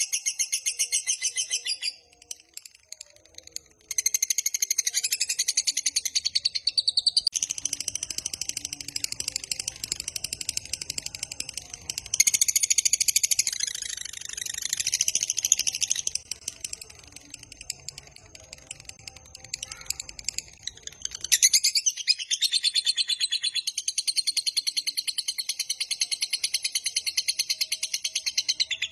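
Lovebird ngekek: a long, rapid, high-pitched chattering trill, sung in extended runs. It breaks off briefly about two seconds in and falls quieter for several seconds past the middle before resuming.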